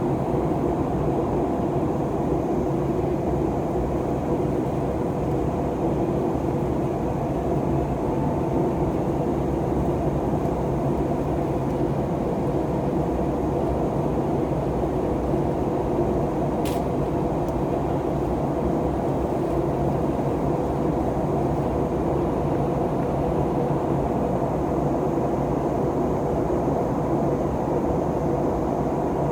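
Steady drone of an Airbus A321neo's Pratt & Whitney PW1100G geared turbofan engines and airflow, heard from inside the passenger cabin, with a faint hum of tones through it. A single brief click about two-thirds of the way through.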